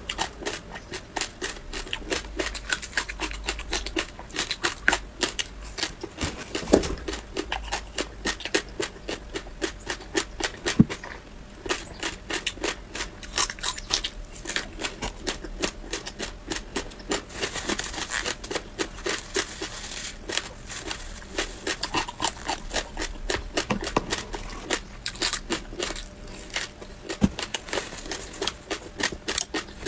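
Close-up crunching and chewing of a thin, brittle seed-covered crisp sheet: a rapid, crackly run of crunches, several a second, with the odd louder snap as a piece is bitten off.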